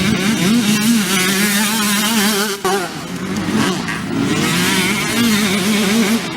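Two-stroke motocross bike engine revving up and down under the throttle, its pitch rising and falling again and again, with a brief drop about two and a half seconds in.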